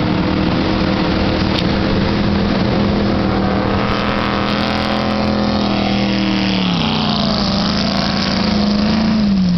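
Speedboat engine running at speed, a steady hum over a broad rushing noise. Its pitch drops about two-thirds of the way through, lifts a little, then drops again near the end.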